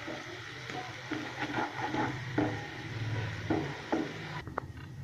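Beef pepper fry sizzling in a pan while a spatula stirs and scrapes through the meat in short strokes; the sizzling drops away sharply near the end.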